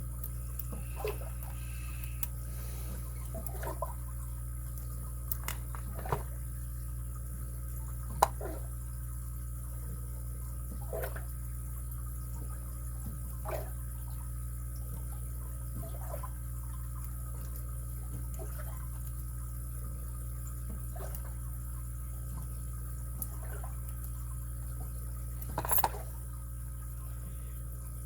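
Faint, irregular clicks and scrapes of lock-picking tools working the pins of a padlock, a few seconds apart, with a louder cluster of clicks near the end, over a steady low hum.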